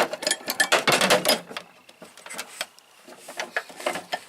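Steel hand tools (breaker bars and ratchets) clinking and clattering as they are handled in a toolbox drawer: a quick run of metal clanks in the first second and a half, and a few more near the end.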